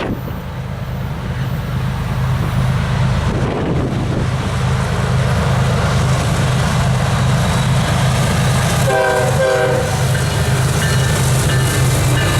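BNSF diesel freight locomotives (a GE ES44DC leading) approach and grow steadily louder under a constant low engine drone. About nine seconds in the engineer gives a short horn salute on the locomotive air horn.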